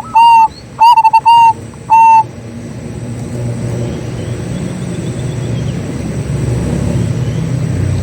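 Zebra dove cooing: a quick run of short, even-pitched coos in the first two seconds. After that a low rumble builds and holds for the rest, with faint chirps from another bird.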